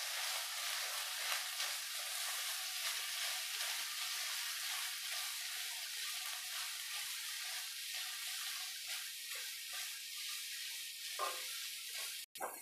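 Boiled lentils and scrambled eggs sizzling in oil in a hot non-stick kadai while being stirred and mixed with a silicone spatula: a steady sizzle with soft, irregular scrapes from the spatula.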